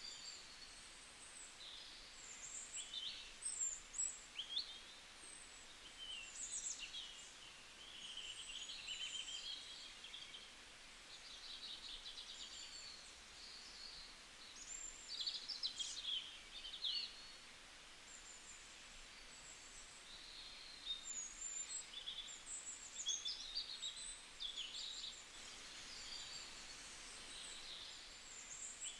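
Birds chirping and singing: many short, varied calls and trills, overlapping and coming in clusters, over a faint steady hiss.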